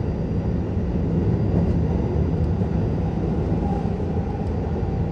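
Keihan 10000 series electric commuter train running along the line: a steady rumble of wheels on rail and running gear, with no change in speed.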